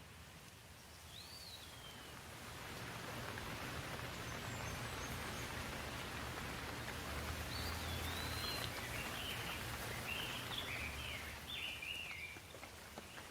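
Steady rain that builds after a couple of seconds, holds, and eases near the end, with a low rumble underneath in the middle. A bird chirps once about a second in and gives a run of chirps in the last few seconds.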